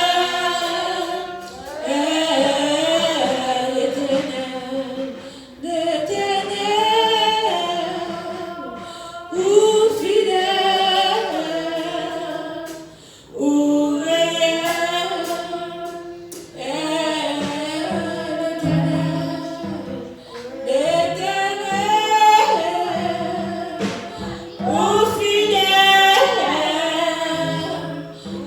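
A congregation or choir singing a hymn, led by women's voices, in phrases a few seconds long that each start strongly and trail off.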